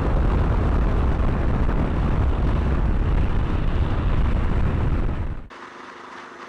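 Heavy wind buffeting on the microphone of a motorcycle rider at speed, a dense low rumble. It cuts off suddenly about five and a half seconds in, leaving a much quieter steady hum.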